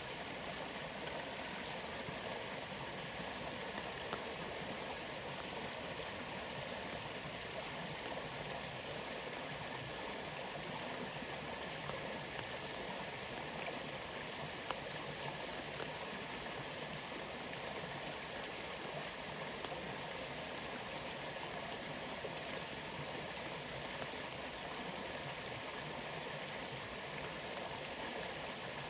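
Waterfall's steady rush of falling water, with a few faint taps of drops.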